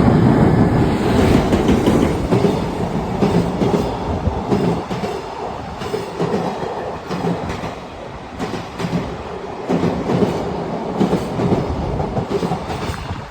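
Freight train hauled by an EF210 electric locomotive passing close by, its wheels clattering over rail joints in repeated groups of sharp clacks over a steady rumble; loudest at the start, easing slightly later on.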